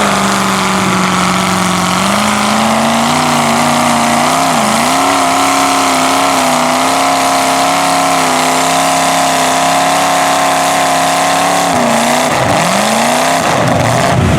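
A mud-bog truck's engine held at high revs, pulling through the mud pit. The revs step up about two seconds in, dip briefly, hold steady, then drop near the end and climb back up.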